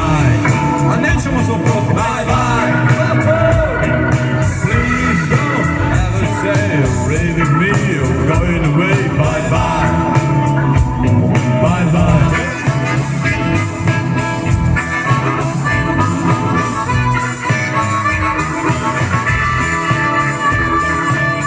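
A live blues band playing, led by electric guitar over a steady beat, with wavering lines of guitar or voice in the first half.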